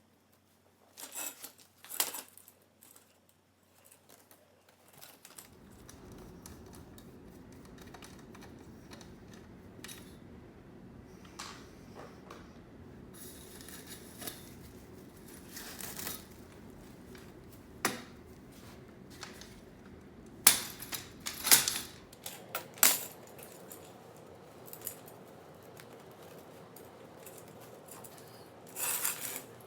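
Scattered clicks, taps and rustles of hands working vinyl lawn-chair webbing and screws on an aluminum chair frame, with a few sharper clicks in quick clusters. A steady low background hum comes in about five seconds in.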